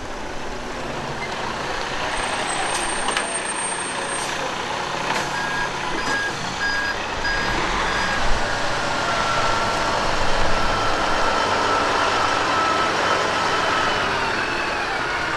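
Heavy truck engines running steadily. A reversing beeper sounds about four times midway through.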